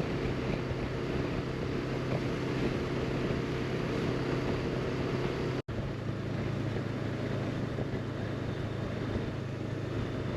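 Honda CB500X's parallel-twin engine running steadily at riding speed, with wind noise over the microphone. About halfway through the sound cuts out for an instant, and after that the engine note sits a little higher.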